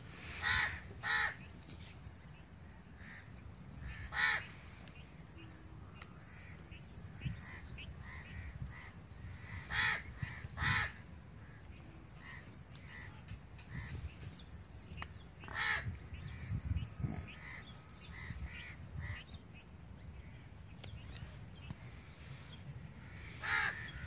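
A bird cawing in short calls, singly and in pairs every few seconds, with fainter bird calls between them over a steady low rumble.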